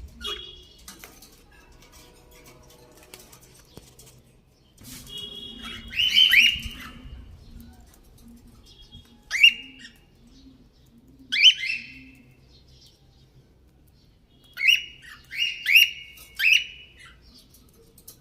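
Hungry small birds chirping: clusters of loud, sharp, falling chirps, two or three at a time, with quieter gaps between.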